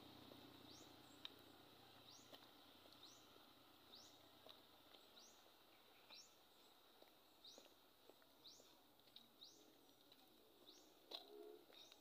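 Faint bird calls: a short rising whistled note repeated about every three quarters of a second, with a few soft clicks and a brief louder sound near the end.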